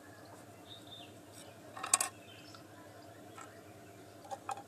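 A quick cluster of sharp clicks about two seconds in, then two lighter clicks near the end, over a low steady hum.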